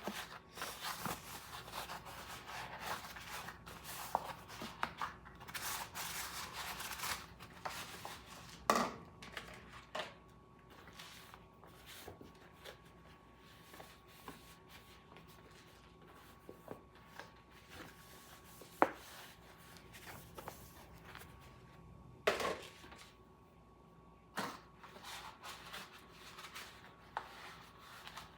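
Dishes being dried by hand and put away: rubbing and rustling of a towel on the dishes for the first several seconds, then scattered knocks and clinks as dishes are set down, a few of them sharp.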